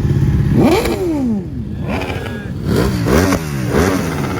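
Motorcycle engines revving, their pitch climbing and dropping back several times.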